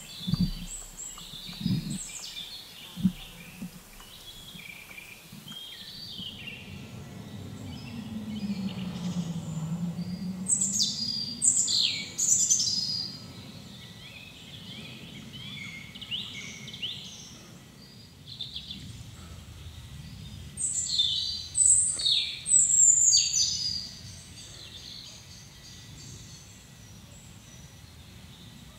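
Wild birds singing in woodland: phrases of quick, sharply falling high chirps, loudest about ten seconds in and again about twenty-one seconds in, with softer calls between. A low hum dips in pitch and rises again around eight to eleven seconds in.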